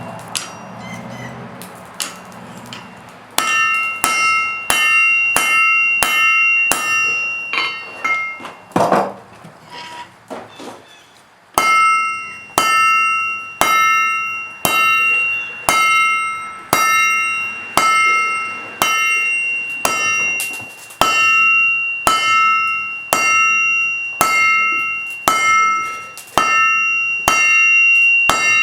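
Forging hammer striking steel on an anvil, each blow leaving a bright metallic ring. A few scattered blows come early, then, after a short lull, steady strikes at about one and a half a second.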